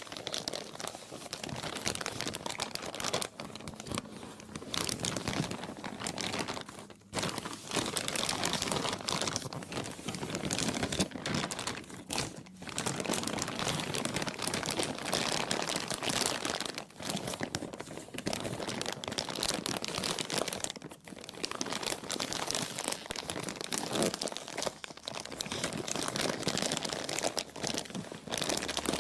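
Plastic being crumpled and crinkled continuously, a dense crackling with brief pauses every few seconds.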